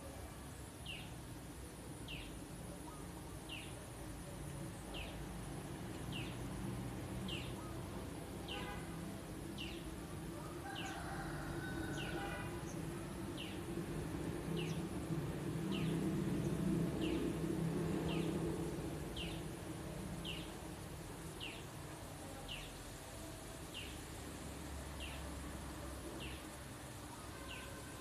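A bird repeating one short, high chirp that falls in pitch, very evenly, about once a second, over steady background hum. A low rumble swells to its loudest in the middle and then fades.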